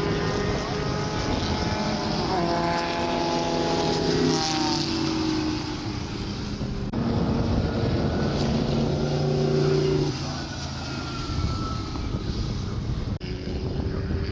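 Historic Grand Prix racing cars' engines running at high revs on the track, the engine note dropping in pitch around four seconds in and again around ten seconds in.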